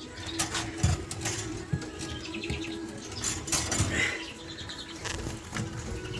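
Small cage birds, Norwich canary × greenfinch mules, fluttering and hopping about a breeding cage: irregular wing flutters and taps, with a few brief chirps about four seconds in, over a steady low hum.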